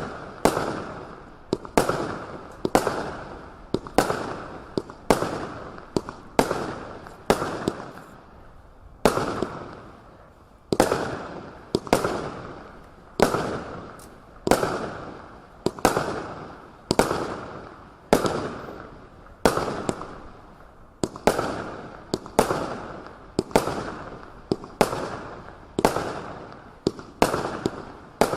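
Kimbolton Fiery Imp 81-shot firework barrage (cake) firing shot after shot at about one and a half bangs a second. Each sharp report is followed by a fading tail, with a brief pause about eight seconds in.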